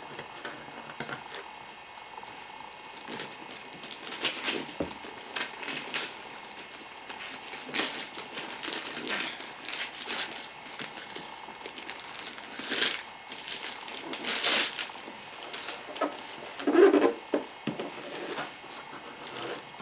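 Paper crinkling and tearing in irregular bursts as a gift is unwrapped, with a few louder rips.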